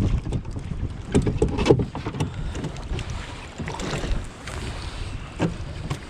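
Wind buffeting an action camera's microphone in a low rumble, with a few scattered knocks and clatter from handling gear in the canoe, strongest about a second and a half in.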